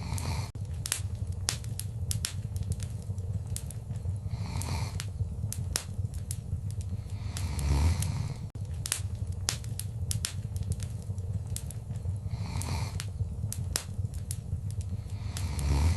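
Wood fire crackling, with frequent sharp pops and snaps over a steady low rumble of burning. A louder rushing swell with a low thump comes about halfway and again at the very end.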